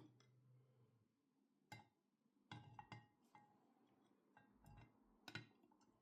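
A few faint, scattered clinks and knocks of hard objects being handled, with a small cluster of them in the middle.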